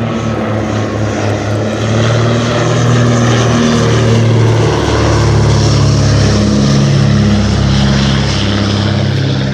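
Twin piston-engined vintage propeller aircraft flying past, a pulsing engine drone that grows louder about two seconds in.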